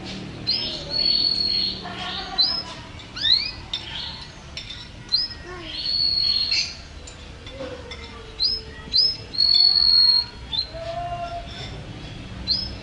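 White-rumped shama singing a varied whistled song: short rising whistles mixed with several long, level, high whistles and a few lower notes.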